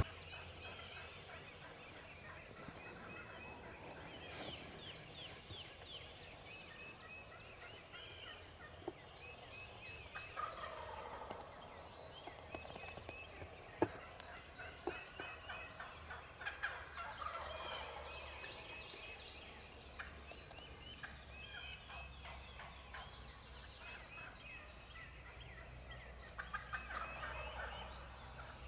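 Wild turkey gobbler gobbling faintly several times, each gobble a quick rattling call, while small songbirds chirp throughout.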